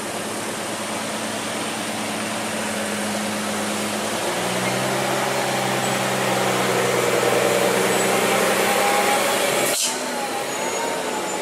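Heavy machine's engine running steadily, its note shifting about four seconds in and getting louder under load, then cut off abruptly near the end, where a different machine sound with a wavering tone takes over.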